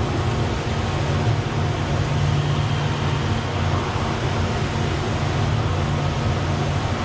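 Steady low mechanical hum under an even wash of noise, the constant drone of a large aquarium hall's ventilation and pump machinery.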